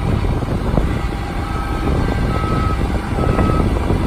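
International 7400 bucket truck's diesel engine running with the PTO engaged, with wind buffeting the microphone. A high-pitched beeping alarm repeats about once a second from about one and a half seconds in.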